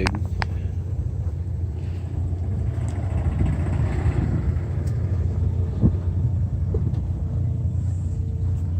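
An engine running steadily, a low even rumble throughout.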